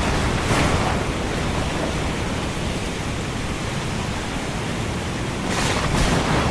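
Ocean surf mixed with rain as a steady rushing noise, swelling briefly about half a second in and again near the end as waves break.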